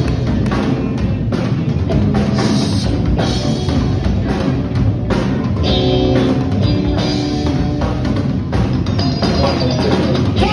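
A rock band playing an instrumental passage, with the drum kit's kick and snare to the fore under pitched instruments.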